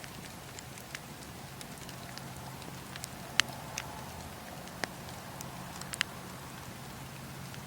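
Wood fire crackling in a fireplace: scattered sharp pops and snaps over a steady low rumble, the loudest pop about three and a half seconds in, with two more near five and six seconds.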